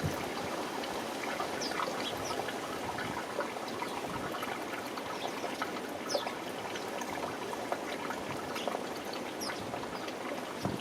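Small garden birds giving short, high chirps, scattered throughout, over a steady rushing background noise.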